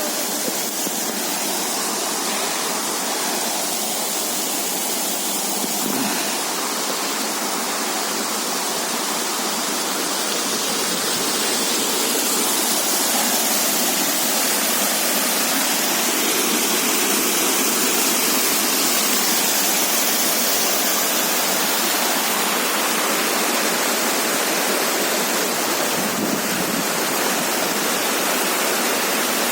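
Steady rush of turbulent mountain water cascading over rocks, growing a little louder about twelve seconds in.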